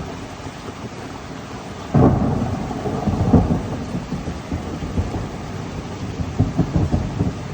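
Steady rain, then a sudden loud thunderclap about two seconds in that goes on as a low, uneven rumble.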